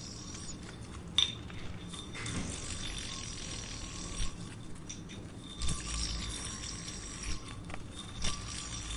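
Jungle ambience sound effect: a steady hiss with thin, held high-pitched calls and a few scattered sharp clicks, the loudest about a second in.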